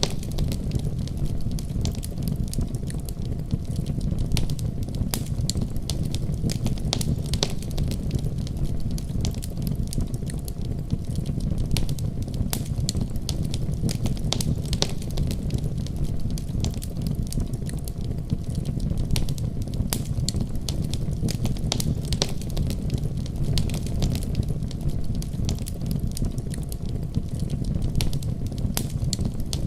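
Wood fire crackling with frequent irregular pops and snaps over a steady deep rumble of storm wind.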